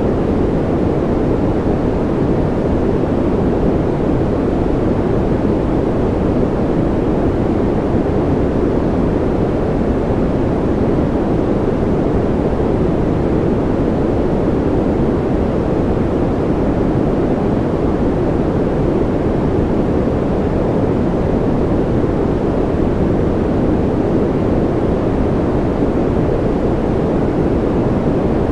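Steady, unchanging low-pitched noise, deep and rumbling rather than hissy: a continuous brown-noise-like hum played as a baby sleep aid.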